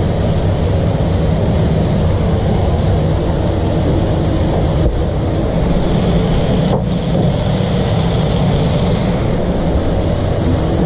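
Steady, loud running noise of food-truck kitchen equipment: an even low hum with a hiss above it and a couple of faint clicks.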